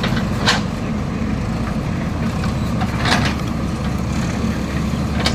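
Heavy diesel engine of earth-moving machinery running steadily, with two short noisy bursts over it, about half a second in and again about three seconds in.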